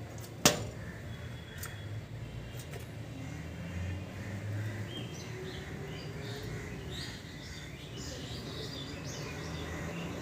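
A single sharp knock about half a second in, a couple of fainter ticks after it, then birds chirping in short calls that grow busier in the second half.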